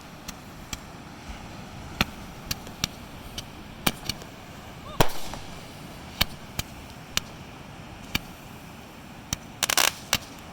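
Fireworks going off: sharp bangs at irregular intervals, the loudest about halfway through, with a quick cluster of crackling bangs near the end.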